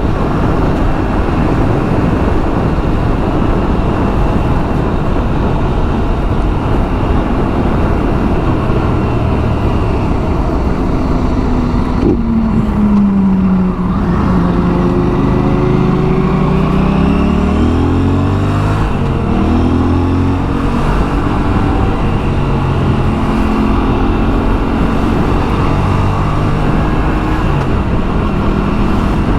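Aprilia RS 457's parallel-twin engine running under way over a steady rush of noise. About twelve seconds in the revs fall, then climb again in several rising steps as it pulls through the gears.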